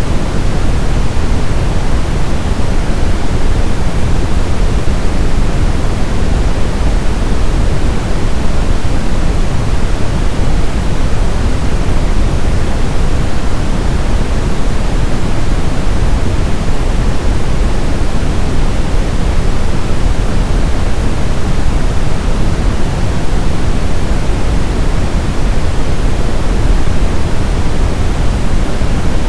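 Brown noise: a steady, loud, unchanging hiss of random noise, heaviest in the low end and falling away toward the high end, like a deep rumble.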